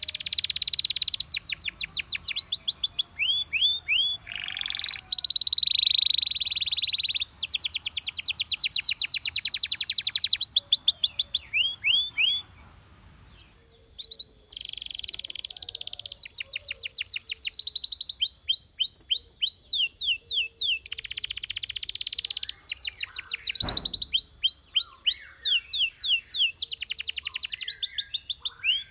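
A Belgian canary singing in long, fast trills of rapidly repeated notes, with a short break near the middle. A single sharp click sounds about two-thirds of the way through.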